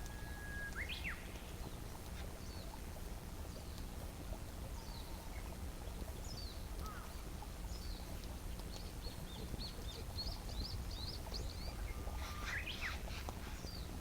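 Wild birds chirping outdoors: many short high chirps over and over, with a louder sweeping call about a second in and another near the end, over a steady low background hum.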